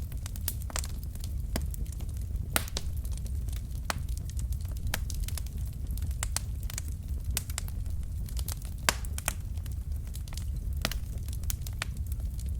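Wood fire in a fireplace crackling, with irregular sharp pops and snaps over a steady low rumble of the flames; the loudest pops come about two and a half seconds in and near nine seconds.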